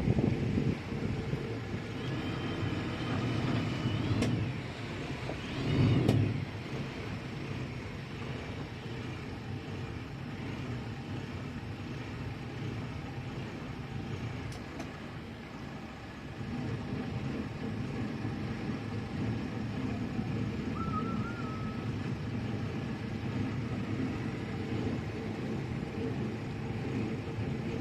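Steady low rumble of a boat under way, its engine running, with a louder swell about six seconds in.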